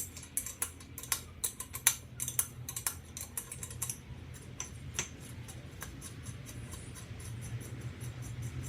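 Rusty steel bolts clicking and clinking against each other and on metal as they are handled, in quick irregular clicks at first, then fewer and further apart, over a steady low hum.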